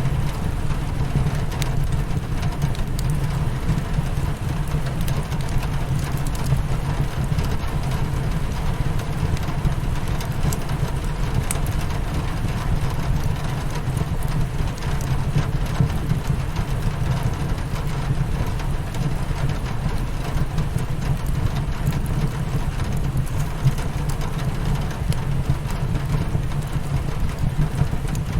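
Steady rain hitting a window, under a constant low rumble, with scattered small taps and crackles of a wood fire mixed in.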